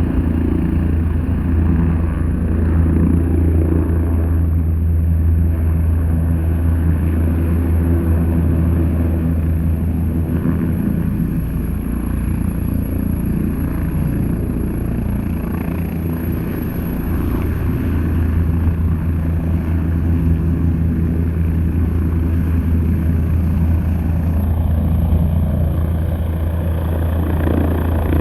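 Air ambulance helicopter running close up: a loud, steady low drone of engine and rotor with a thin high whine above it, easing slightly for a few seconds midway.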